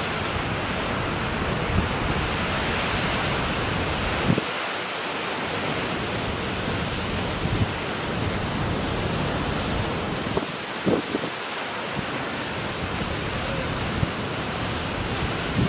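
Ocean surf washing steadily, with wind buffeting the microphone and a few brief low thumps from gusts.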